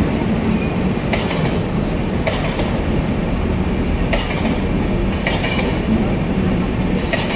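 Indian Railways passenger train rolling past: a steady rumble of coaches on the rails, with sharp clickety-clack of wheels over rail joints coming in pairs about a second apart, a pair every three seconds or so.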